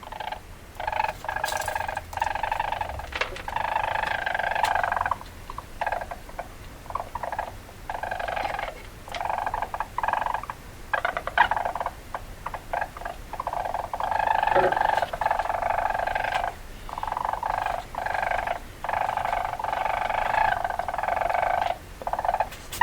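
Weasel calling: rapid chattering trills in bursts of one to three seconds with short gaps, repeated again and again.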